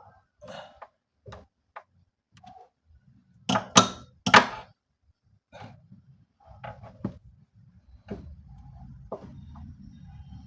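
Knocks and clicks of hand work on a wooden cabinet, with three loud knocks in quick succession about three and a half seconds in. A low steady rumble sets in about eight seconds in.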